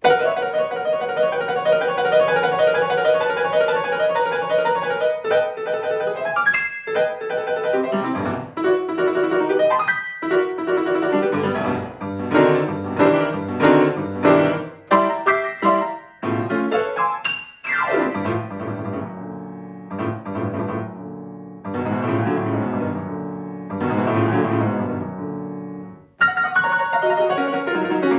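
Solo piano playing: held chords at first, then quicker runs of separate notes broken by short pauses, with a brief stop near the end before the playing picks up again.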